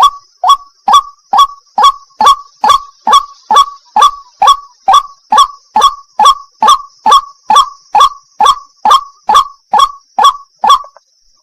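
White-breasted waterhen giving its monotonous 'wak-wak' call, one short call after another at about two a second, stopping near the end.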